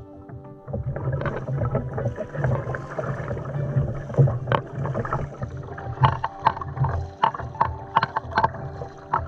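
Kayak paddling: the paddle blades dip and splash in the water with irregular strokes over a steady wash of water, starting under a second in.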